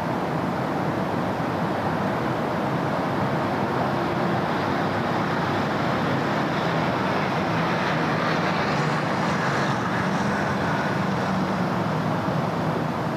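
City road traffic: a steady wash of car engines and tyre noise from passing vehicles, with one vehicle passing closer about two thirds of the way through.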